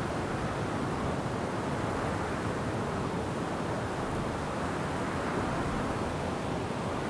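Wind blowing steadily through forest trees, an even rushing with no distinct gusts or individual sounds.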